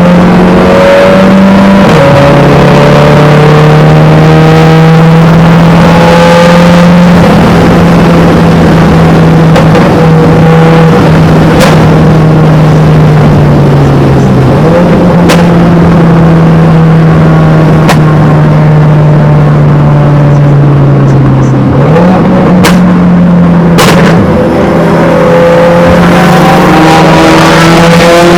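Loud straight-piped car exhaust and engine under way at speed. The pitch climbs as the engine revs and drops or jumps several times as gears change, with a few short sharp clicks.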